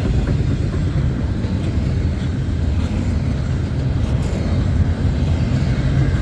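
Double-stack intermodal freight cars rolling past, a steady low rumble of steel wheels on rail.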